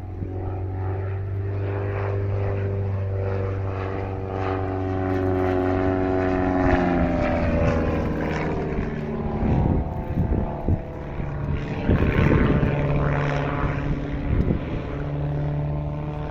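Pitts Special S1 aerobatic biplane's piston engine and propeller running steadily in flight. Its pitch falls about seven seconds in as it passes, followed by an uneven, surging propeller noise.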